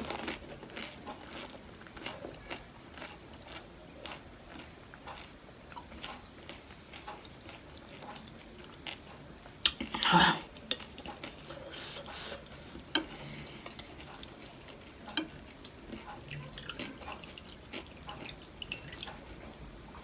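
Close-miked eating of pani puri and wet chatpate: small crunches, wet mouth sounds and light clinks of utensils against the dish, with a louder burst about halfway through.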